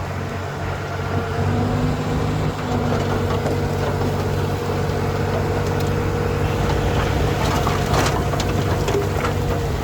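Diesel engine of heavy earthmoving machinery running steadily under a constant higher whine, with a few sharp knocks near the end.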